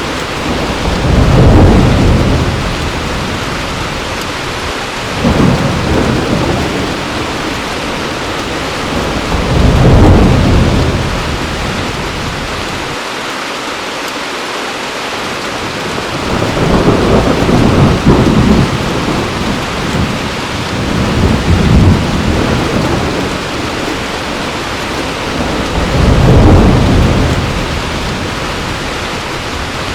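Heavy steady rain with rolls of thunder that swell and fade about six times, each rumble lasting a second or two.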